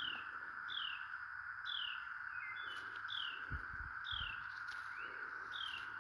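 Steady drone of a cicada chorus, with a bird repeating short falling whistles about once a second over it.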